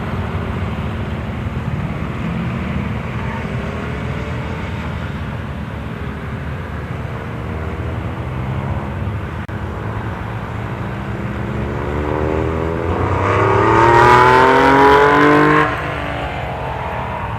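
Classic and retro cars' engines running as they lap a race circuit at parade pace. Near the end one car comes close, accelerating with a rising engine note, and its sound cuts off sharply.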